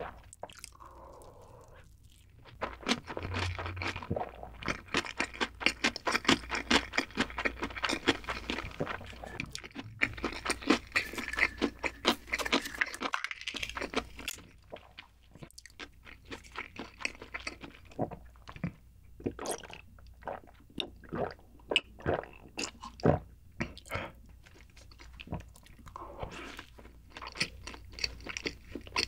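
Close-miked eating sounds: a mouthful of gimbap chewed with dense crunching for about twelve seconds. Then come sparser single mouth clicks and smacks. Chewing picks up again near the end as a soft egg sandwich is eaten.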